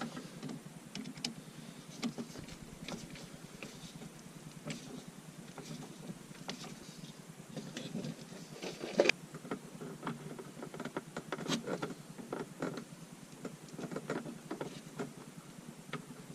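Scattered light clicks and knocks of tools and parts being handled during hands-on repair work, with one sharper knock about nine seconds in.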